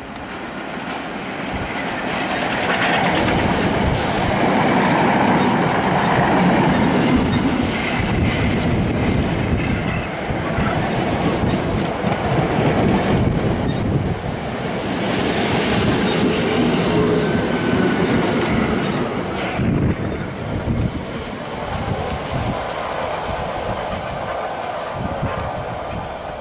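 South West Trains Class 455 electric multiple unit approaching and running close past, a steady rumble of wheels on rail that swells as it nears. A few sharp clacks come from the wheels over rail joints, about halfway through and again later.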